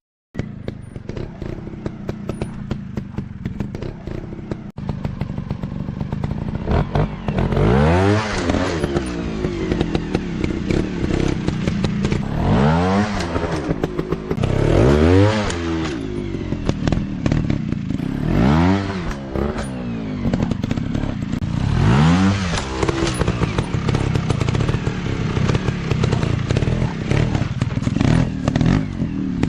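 Dirt bike engine running with the throttle blipped again and again, each rev rising and falling in pitch every few seconds, over a steady low engine note.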